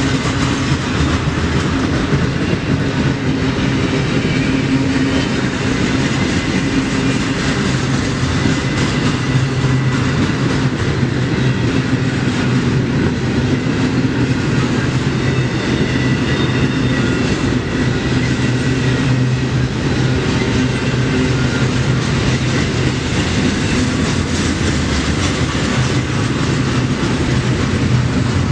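Freight train's cars rolling past at a steady speed, with wheels running on the rails.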